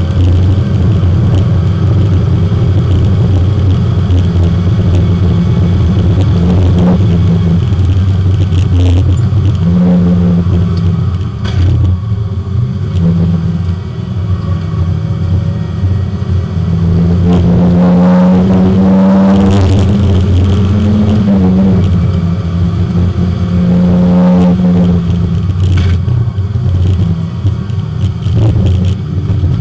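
Porsche 924 race car's engine heard from inside the car at speed on track, running loud and steady. It eases off about twelve seconds in, then the revs climb under acceleration around seventeen to twenty seconds in and again near twenty-four seconds.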